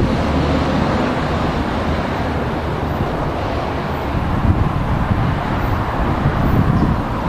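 A train rolling past: a steady, loud rumble of wheels on the rails.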